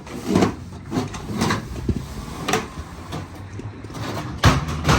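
Knocking and scraping of roofing material being handled and set down, a knock about every half second or so, with a loud bang about four and a half seconds in and another just after it.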